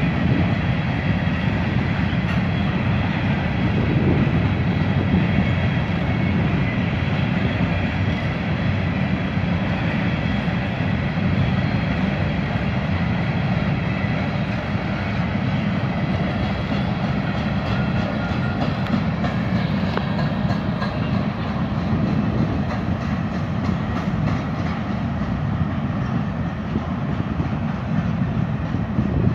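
Freight train of covered grain hopper cars rolling past, a steady rumble of wheels on rail with repeated clacks.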